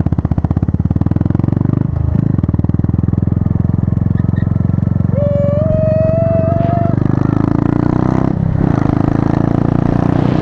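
Motorcycle engine running under way, with wind rushing over the microphone. The engine note dips briefly twice, and a clear pitched tone rises slightly for about two seconds midway.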